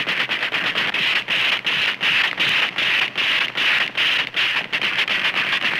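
A small aircraft engine running with a rapid, irregular clattering and popping, several pops a second.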